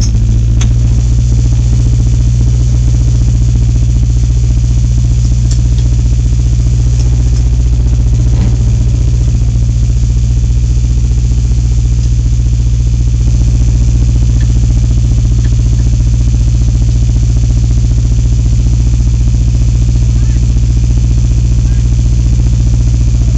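Dirt-track stock car's engine idling steadily, heard from inside the car.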